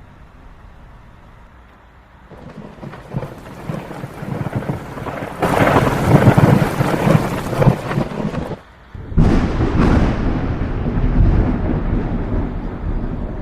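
Thunderstorm: heavy rain with deep rumbling thunder, building from a couple of seconds in to a loud peak, breaking off suddenly for about half a second near two-thirds of the way through, then coming back loud and slowly easing.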